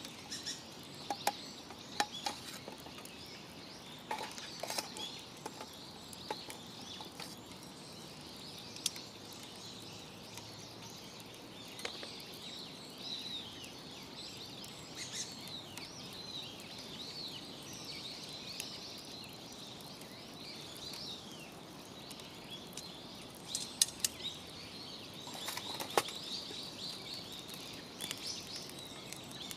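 Small birds chirping in many short, quick calls throughout, over a wood fire in a fire pit giving occasional sharp crackles and pops.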